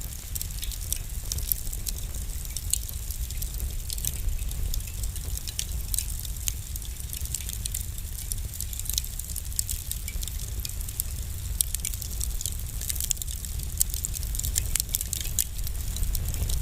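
Fire in a fireplace crackling: many small, sharp, irregular pops over a low, steady rumble.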